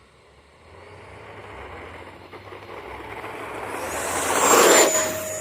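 Electric ducted fan of an FMS F-18 64 mm RC jet swelling in as the jet approaches, passing close about four and a half seconds in with a rushing whine, then its high whine drops slightly in pitch and fades.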